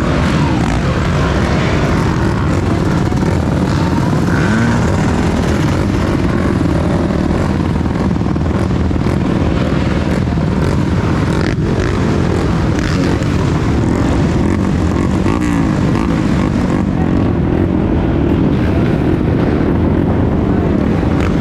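Enduro motorcycle engine running continuously under load, its pitch rising and falling as the rider works the throttle, heard from a bike- or helmet-mounted action camera.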